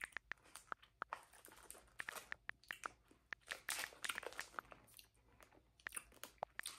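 Faint close-up chewing of sour blue raspberry gummy candy: an uneven run of wet mouth clicks and smacks, with a few longer stretches of chewing.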